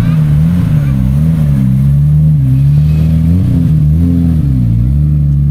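Car engine running loud and deep, its pitch rising and falling repeatedly as the throttle is blipped.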